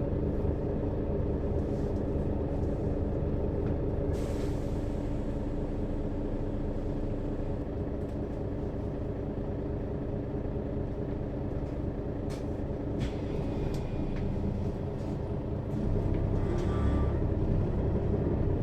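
Mercedes-Benz Citaro bus diesel engine running steadily, heard from above the engine, with a short hiss of compressed air about four seconds in and a few clicks later. Near the end the engine gets louder with a deeper rumble.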